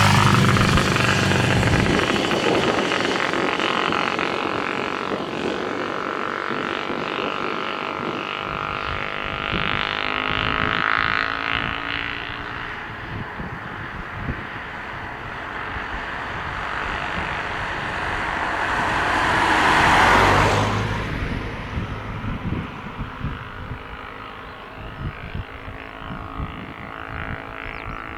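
Boeing 787-9 Dreamliner jet engines running as the airliner passes, a steady roar with several whining tones that slowly glide in pitch. The sound swells to its loudest about 20 s in and then fades.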